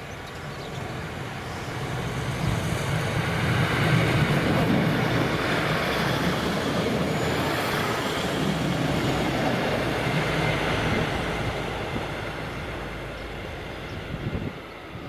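Northern Class 156 diesel multiple unit approaching and passing close by: engine rumble and the noise of wheels on the rails build over the first few seconds, stay loud while the cars go past, then fade away.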